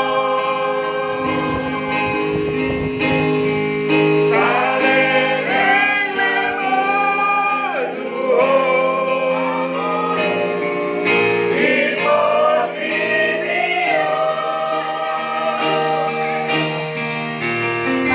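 Church choir singing a hymn in several voices over steady held accompaniment chords.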